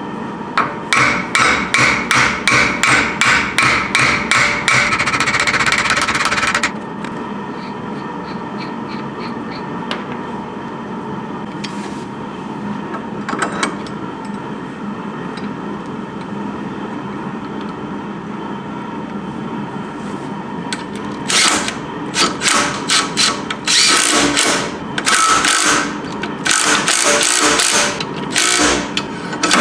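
Tools working on a car's rusted rear suspension, metal on metal. A quick run of sharp strikes lasts about six seconds, then, from about 21 seconds in, repeated short loud bursts of clatter.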